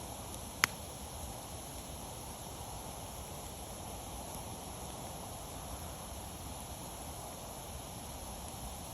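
Wood fire burning with a steady hiss, and one sharp, loud pop from the burning wood less than a second in.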